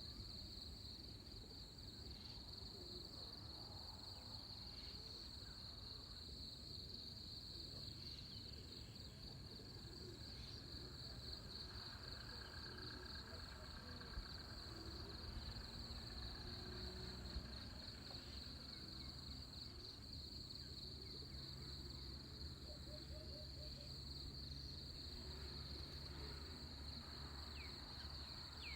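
Insects trilling in a continuous high-pitched, finely pulsing drone, with a low rumble underneath and a few faint bird chirps.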